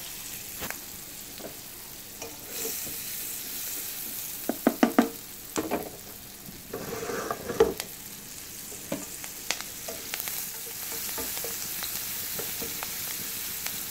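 Chopped onion, bird's eye chillies and garlic sizzling in melted butter in a pan while a spatula stirs them, with a steady hiss. Sharp spatula knocks and scrapes against the pan come about four to five seconds in and again near eight seconds.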